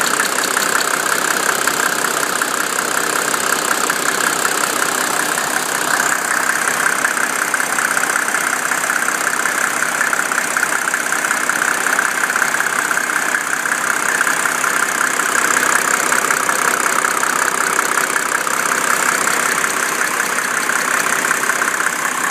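1987 Mercedes 300SDL's six-cylinder turbodiesel idling warm, with a ticking that comes in and out. The ticking appears at operating temperature at idle and goes away after a few minutes of driving; the owner does not know whether it is an injector, the vacuum pump, sticking valves or timing chain slap.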